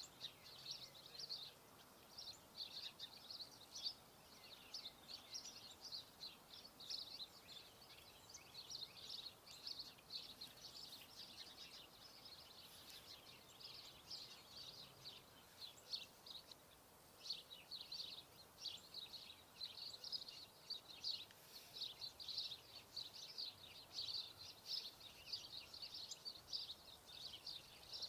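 Faint, continuous chirping and twittering of small birds: many short, high-pitched calls overlapping throughout.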